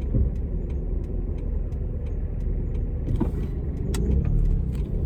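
Low, steady rumble of nearby cars, with a few light clicks over it.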